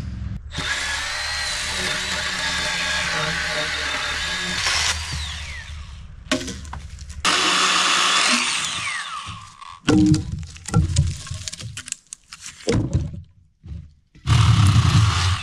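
Chainsaw cutting in two long bursts, its pitch falling as the throttle is let off after each. Then a run of sharp knocks and cracks, and the saw revs up again near the end.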